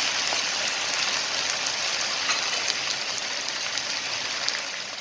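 Quail searing in a pot of hot ghee with fried onions, ginger and garlic over high heat: a steady sizzle with scattered small crackles and spits, easing slightly near the end.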